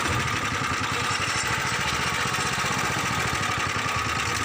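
A small engine running steadily at an even, idle-like speed, with a fast low pulse and a faint steady whine.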